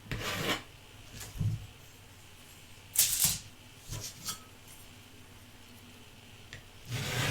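Rasping rubbing strokes on a hard surface, five short strokes at uneven intervals.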